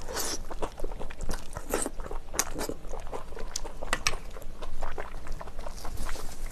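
Close-miked mouth sounds of biting and chewing chewy shellfish meat from a spicy clam stew: a run of wet smacks and sharp little clicks.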